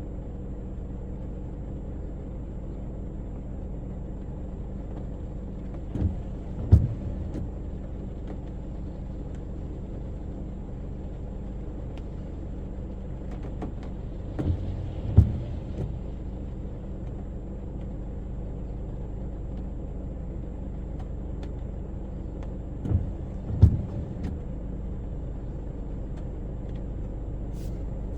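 Steady low hum of a car's engine and road noise heard inside the cabin, broken by pairs of short knocks about three quarters of a second apart that come back every eight or nine seconds, the pattern of windscreen wipers on an intermittent setting sweeping across and back in the rain.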